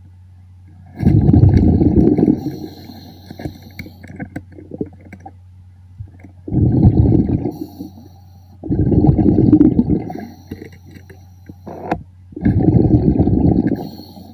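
Underwater recording of a scuba diver's exhaled bubbles rushing from the regulator, four bubbling bursts of about a second each, a few seconds apart, with faint clicks between them.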